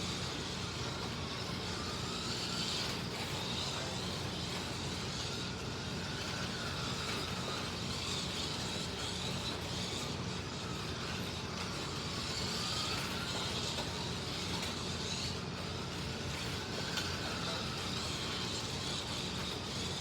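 Small electric motors of 1/32-scale slot cars whining steadily as they lap the track, the pitch rising and falling as the cars speed up on the straights and slow for the corners.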